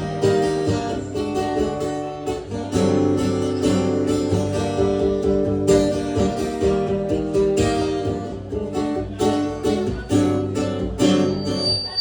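Acoustic guitar strummed in steady chords in an instrumental break between verses of a live song.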